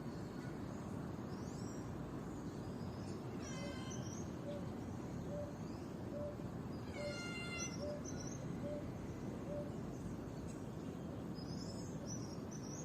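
Birds chirping and calling over a steady low background hum, with two louder stacked calls and a run of about ten soft, low hoots at roughly two a second through the middle.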